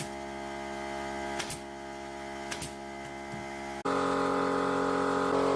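Steady mechanical hum of a running machine, with a few light knocks, changing to a louder hum about four seconds in.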